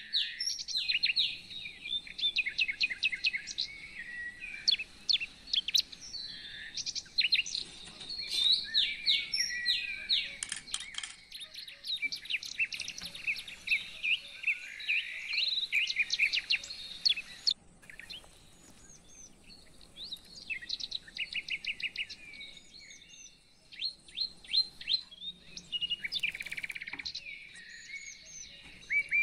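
Small birds chirping and twittering in quick runs of short, high notes, with brief quieter gaps a little past the middle.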